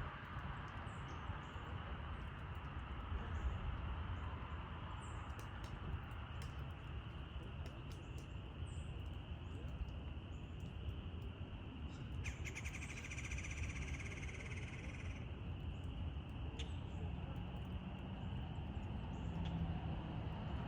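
A bird's rapid trill, about three seconds long and a little over halfway through, over a steady low outdoor rumble with a few faint taps.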